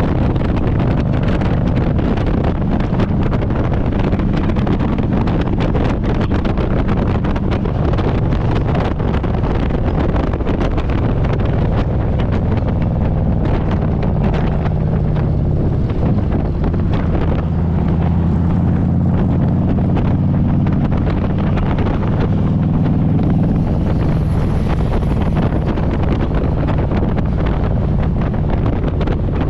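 Harley-Davidson Road Glide's V-twin engine running steadily under way, with wind noise on the microphone. The engine note shifts slightly in pitch about halfway through.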